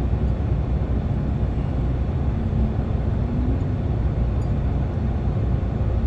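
Steady low rumbling noise, heaviest in the bass and even in level throughout, with no distinct events.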